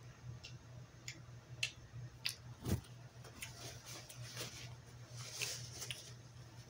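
Close mouth sounds of chewing sushi: scattered wet clicks, one dull knock a little under three seconds in, and a paper napkin crumpling and rustling in the hands partway through, over a low steady hum.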